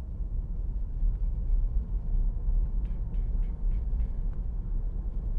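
Steady low road rumble from tyres and wind inside a moving vehicle at about 50 mph, with a few faint ticks midway.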